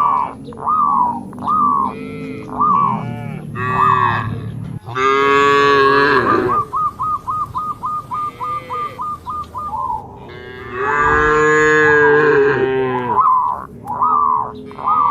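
Cattle mooing: a run of short repeated calls, two long loud moos about five and eleven seconds in, and a fast stuttering call between them.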